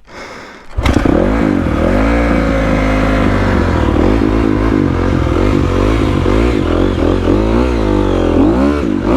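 Honda CRF250R dirt bike's four-stroke single-cylinder engine firing up suddenly about a second in, then revving unevenly, its pitch rising and falling as the rider works the throttle to keep it from stalling.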